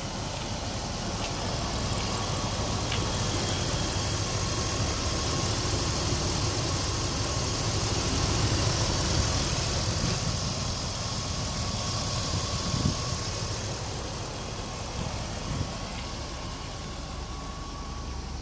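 A 2000 Dodge Durango's V8 engine idling steadily with the hood up, louder for a while around the middle.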